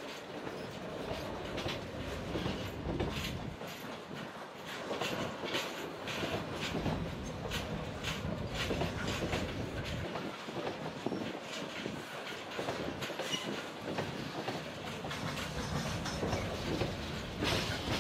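Freight train's covered wagons rolling past close by, a steady rumble of wheels on rails with frequent sharp, irregular clacks.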